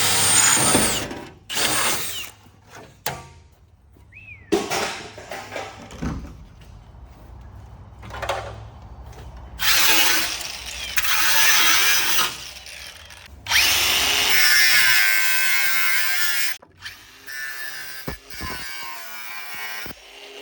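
Cordless power tool cutting and drilling into the steel body shell of an E36 BMW, run in several bursts: one right at the start, a short one soon after, and two longer runs of a few seconds each in the second half, with knocks and metal clatter between.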